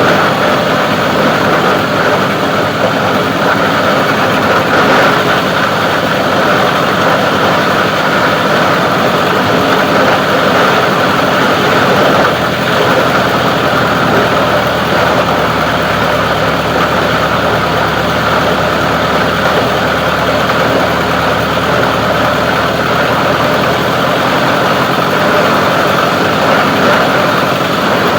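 Plastic recycling grinder machine running steadily and loudly.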